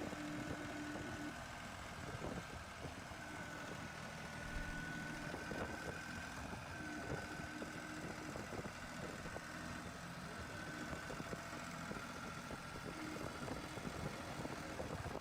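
Tractor engine running steadily at low revs, with a thin, high steady whine over it.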